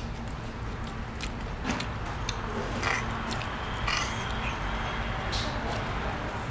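People chewing and biting into food, with short noisy bursts of eating and scattered sharp clicks over a steady low hum.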